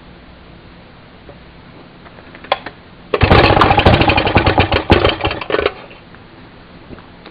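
Maytag Model 92 single-cylinder two-stroke engine firing in a rapid run of pops for about two and a half seconds after a clack, then dying out. It is catching briefly but not yet running on its own, having been primed with gas poured down the spark plug hole.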